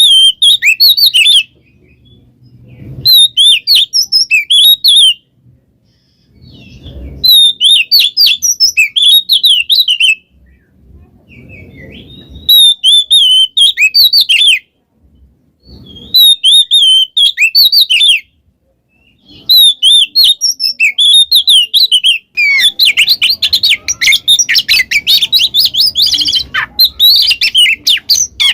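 Oriental magpie-robin (kacer) singing loudly in phrases of quick, varied whistled notes about two seconds long, separated by short pauses. In the last six seconds the song becomes a continuous rapid chatter.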